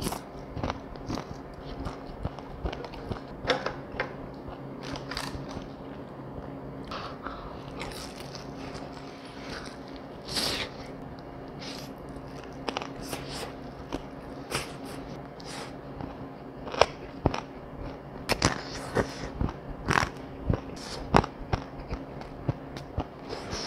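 Close-up chewing of crispy fried chicken: irregular crunchy bites and wet mouth sounds, with sharper, louder crunches near the end.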